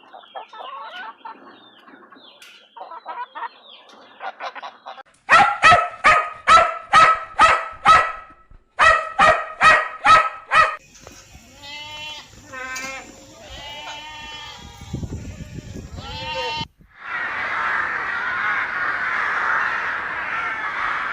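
Animal calls from several different animals in turn: faint chirping, then a loud run of short honking calls repeated about twice a second, then gliding squawks, and from about three-quarters of the way through a dense continuous clamour like a whole flock calling at once.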